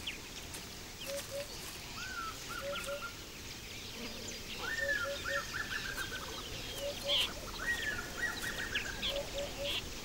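Wild birds calling: three times, about three seconds apart, a short note that breaks into a rapid trill, with soft low notes repeating in twos and threes between them.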